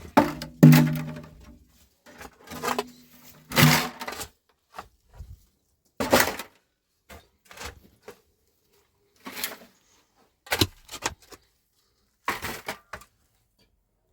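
Irregular knocks and clatters, about a dozen scattered through, some with a short ringing low note, from things being handled and set down.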